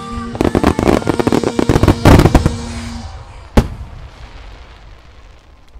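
A fireworks starmine finale: a rapid volley of bursts and crackling, loudest about two seconds in, then one sharp bang a second or so later and fading crackle. Music plays underneath for the first half.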